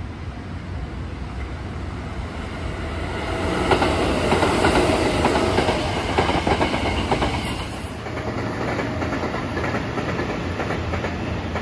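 Sanyo Electric Railway electric train passing at speed without stopping, its wheels clattering over the rail joints, growing louder as it nears and loudest from about four to eight seconds in. About eight seconds in the sound changes abruptly to a fainter, steady rumble of the train running further away.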